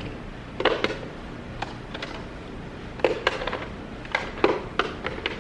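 Skincare products being pushed and shuffled around inside a small beauty fridge: scattered sharp plastic clicks and knocks, about eight of them, as things are rearranged to make room.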